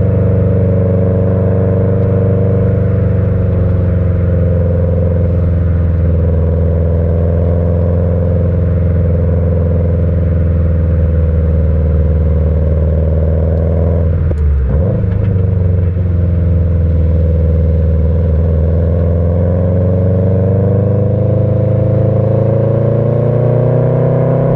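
Subaru EJ20 turbo flat-four with stock unequal-length headers and a Kakimoto Regu.06&R muffler, giving the uneven boxer rumble under load while driving. Engine pitch holds fairly steady, dips and swoops sharply about fourteen seconds in as at a manual gear change, then climbs gradually as the car accelerates.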